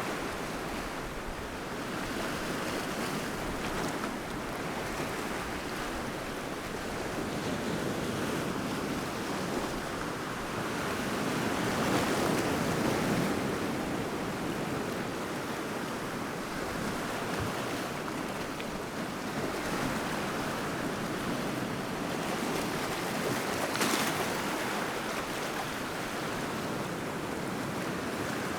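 Surf on the East Sea: waves washing onto the shore in a continuous rush, swelling louder as bigger waves break about midway and again briefly near the end.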